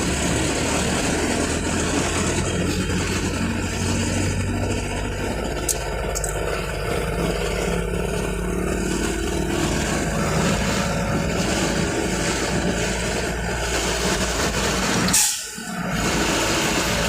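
Steady low drone of vehicle engines running in slow, jammed traffic. A brief loud burst of noise comes near the end.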